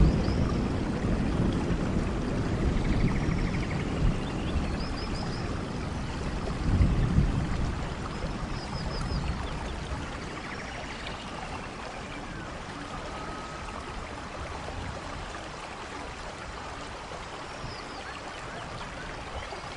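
Storm wind and heavy rain over a rough sea: a dense, steady rushing noise with low gusty surges near the start and about seven seconds in, easing to a steadier, quieter rush after about eight seconds. A few faint high chirps sound through it.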